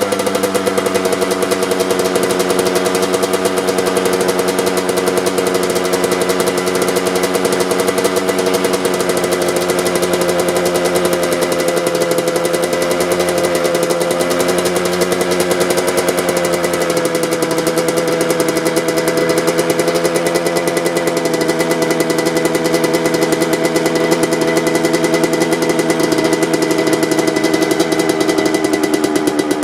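Suzuki RM 125's single-cylinder two-stroke engine idling steadily through its stock exhaust pipe, warming up after a cold start.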